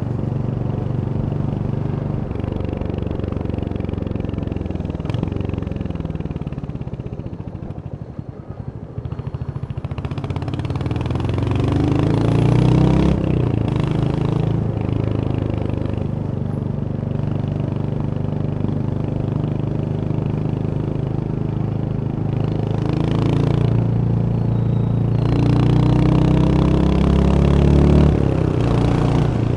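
Royal Enfield Hunter 350's single-cylinder engine running on the ride, easing off to a low point about eight seconds in, then pulling up with rising pitch through the gears. Wind rush grows at speed.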